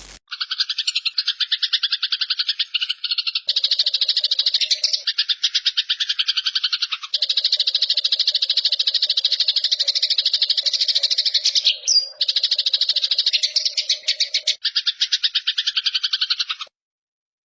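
Eurasian tree sparrow giving its fast, buzzing fighting chatter: long runs of rapid chirps broken by brief pauses, stopping about a second before the end.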